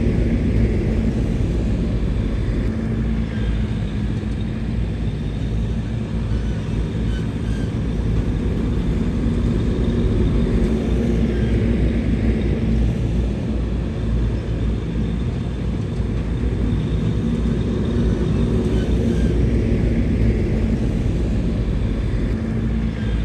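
Diesel engine of heavy earth-moving equipment running steadily at work, with a deep, continuous engine note.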